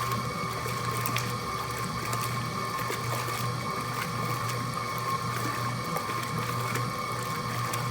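Mueller Plus washing machine running its wash cycle: a steady motor hum and whine, with water churning and small clicks throughout.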